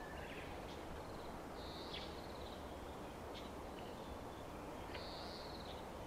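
Wild birds calling: several short high chips and two longer, even high calls about two and five seconds in, over a steady low background noise.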